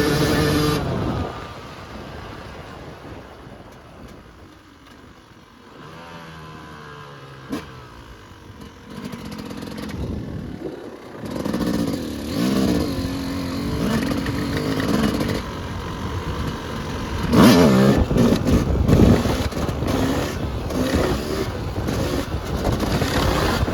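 Yamaha YZ250 two-stroke single-cylinder dirt bike engine. It is on the throttle at first, then about a second in it falls quiet near idle for several seconds, with one sharp click in the middle. About halfway through it revs up again and runs hard with rising and falling revs, loudest a little past the middle of the second half.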